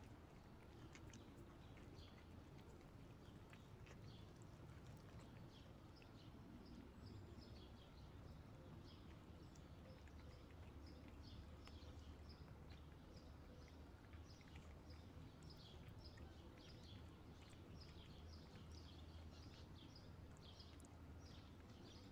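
Quiet outdoor ambience: faint small birds chirping in quick repeated notes, busier from about a third of the way in, over a low steady rumble.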